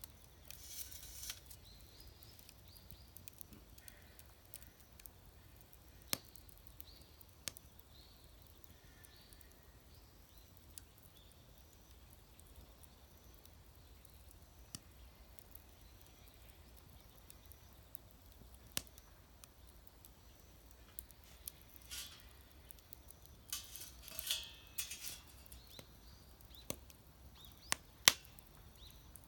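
Wood fire crackling in a homemade fire pit: scattered sharp pops at irregular intervals, the loudest near the end, with a few short rustling bursts.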